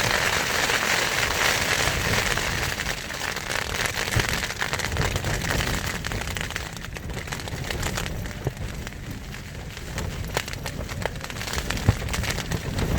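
Heavy wind-driven rain lashing a tent, heard from inside: a dense patter and crackle of drops on the fabric, loudest in the first few seconds and easing a little later on, with one sharp tap near the end.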